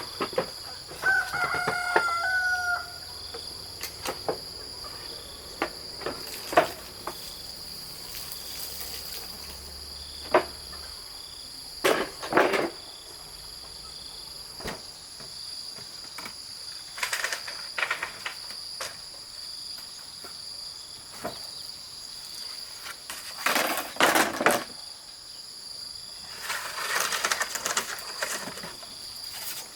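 A rooster crows once, about a second in, over a steady high insect drone. Scattered short knocks and rustles follow through the rest.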